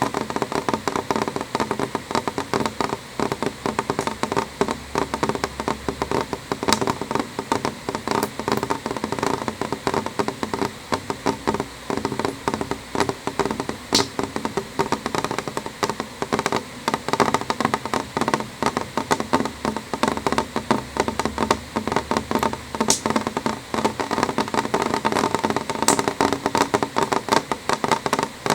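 Rain on window glass: a steady, dense patter of drops tapping irregularly, with a few sharper single clicks from bigger drops now and then.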